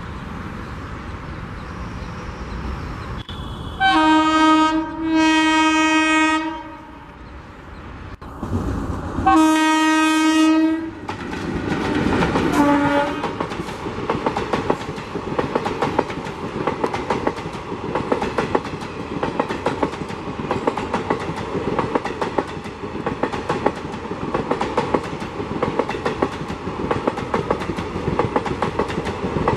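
WAP4 electric locomotive sounding its horn: two long blasts about four seconds in, another near ten seconds and a short faint one just after. Then the train runs past with a rapid, steady clickety-clack of coach wheels over the rail joints.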